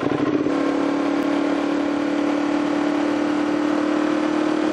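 Sportbike engine running at steady revs while under way, its note holding one pitch over a constant rush of riding noise.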